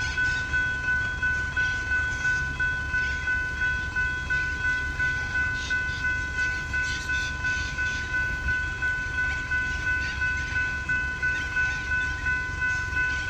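General Signal Type 3 electronic level-crossing bells ringing steadily, a bright metallic ding repeating about three times a second. They are sounding the warning of an approaching train.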